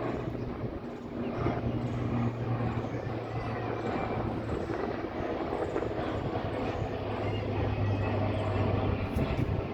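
Airplane engine drone, a steady low hum whose pitch drops slightly about halfway through, over rough rushing noise.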